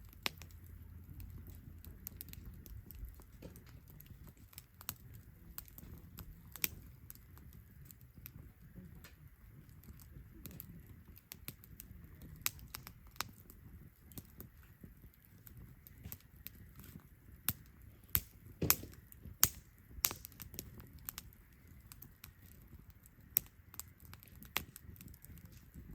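Wood campfire crackling, with irregular sharp pops over a low, steady rush of flame. A run of louder pops comes about two-thirds of the way through.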